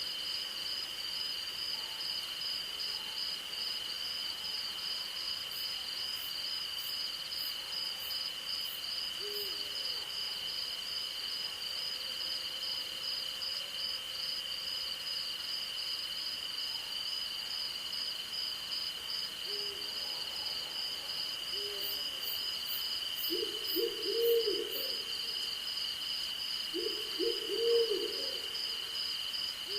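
An owl hooting now and then with short low notes, loudest in two quick runs of hoots late on, over a steady chorus of crickets and other night insects: one high unbroken drone and one fast-pulsing chirp, with two brief series of faint, very high ticks.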